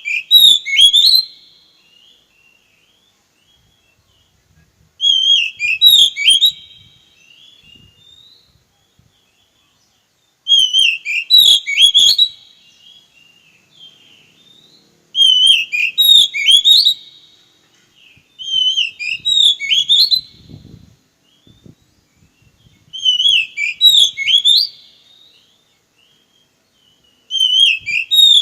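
Oriental magpie-robin (kacer) singing, repeating the same short whistled phrase about every four to five seconds, seven times.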